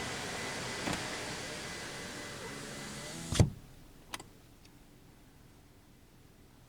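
A car's electric window winding up, its motor running against steady outside noise until the glass seats with a thump about three and a half seconds in. The outside noise is then shut out, leaving a quiet cabin with a few small clicks.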